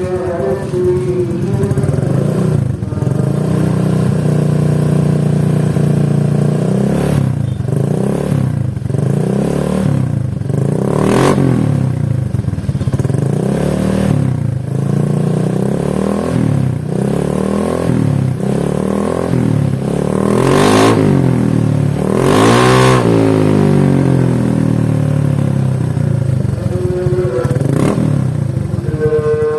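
Honda Vario scooter's single-cylinder engine through an aftermarket 'kondoman' racing exhaust, idling and then revved in a series of throttle blips. The revs rise and fall from about seven seconds in, with the highest peaks about two-thirds of the way through, before it settles back to idle near the end.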